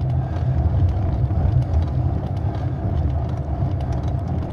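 Low, steady rumble of road vibration picked up through a bicycle-mounted camera while riding a rough road, with faint rattling ticks. The uploader puts this bad sound down to vibrating handlebar armrests or the DJI camera mount.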